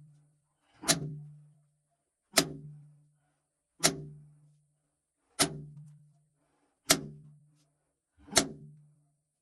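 Hammer blows on rock: six sharp strikes about one and a half seconds apart, each followed by a brief low ringing hum.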